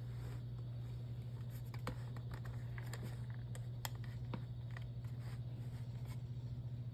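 Scattered light clicks and taps from handling a plastic electric fan heater, over a steady low hum.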